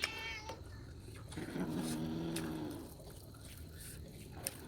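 Domestic cat meowing once, briefly, at the start, followed about a second and a half in by a low, steady drawn-out vocal sound lasting about a second.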